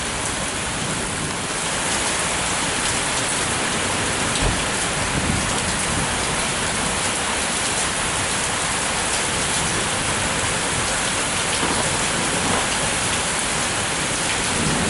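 Heavy thunderstorm rain falling steadily, a dense even hiss of drops hitting surfaces, with one sharp tap about four and a half seconds in.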